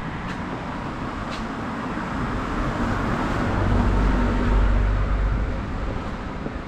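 A motor vehicle passing on the street: its engine and tyre noise swells to a peak about four to five seconds in, then fades.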